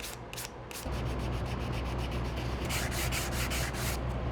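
Rapid back-and-forth sanding strokes on the wooden body of a hand plane. About a second in, a motor starts up with a steady low hum under the strokes.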